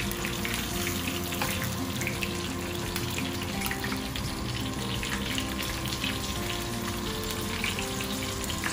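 Chicken thighs sizzling steadily in hot oil in a double-sided grill pan, with a constant fine crackle.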